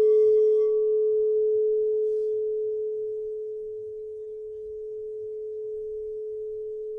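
Crystal singing bowl ringing one sustained note, its higher overtones dying away within about the first second while the main tone slowly fades.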